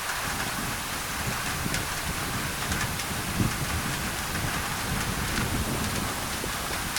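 Steady rain drumming on a thin tin roof: a constant hiss with scattered individual drop ticks. An uneven low rumble runs underneath and swells briefly a little past the middle.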